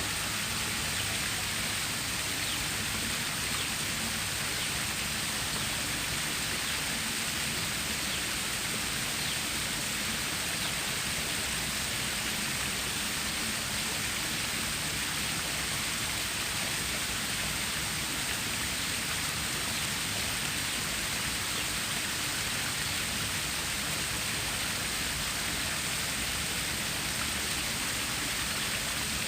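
Water stream flowing over rocks, a steady, even rushing with no breaks.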